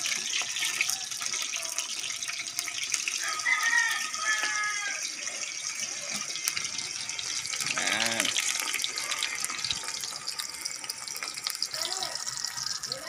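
Eggplant frying in hot oil in a pan: a steady crackling sizzle of oil, which spatters now and then.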